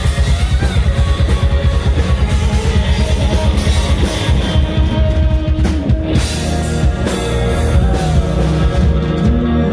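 Rock band playing, with a pounding drum kit and guitar; the drumming is dense and rapid, then the pattern changes about six seconds in.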